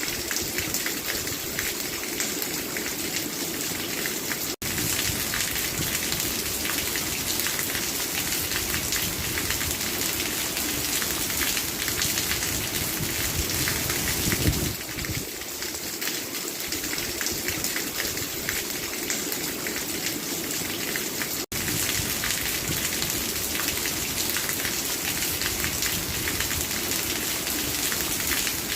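Steady rain falling, a dense patter of drops on a surface, with a brief swell about halfway through. The sound cuts out for an instant twice.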